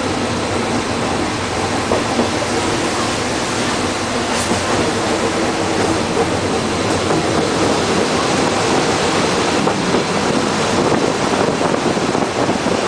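Rack-railway railcar running along its narrow-gauge track, heard from inside the driver's cab: steady running noise of wheels and machinery with a faint hum and a few brief clicks.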